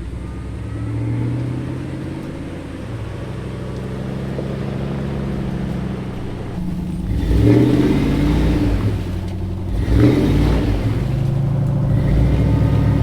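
Off-road vehicle engine running steadily, then revving up in two surges, about seven and ten seconds in, before settling to a steadier, louder run.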